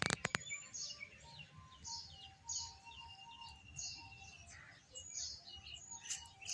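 Birds chirping: many short high calls, with one longer steady note in the middle.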